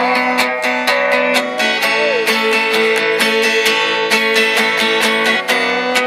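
Acoustic guitar strummed in a steady rhythm, with a held melody note that slides down about two seconds in and is sustained for several seconds.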